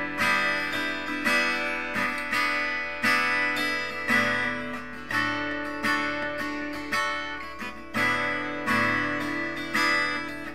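Acoustic guitar strumming chords in a slow, even rhythm, about one strum a second.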